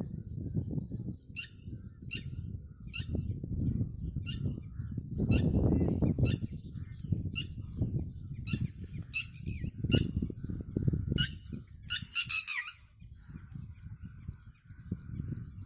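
A bird repeating a short, sharp call about one and a half times a second, ending in a quick run of calls falling in pitch about three-quarters of the way through. A low rumbling noise runs underneath.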